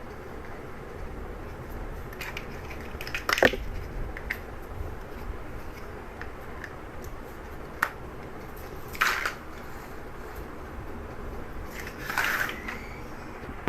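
Plastic Lego bricks being handled and snapped together: a few separate clicks and short scraping rustles, the sharpest about three and a half seconds in.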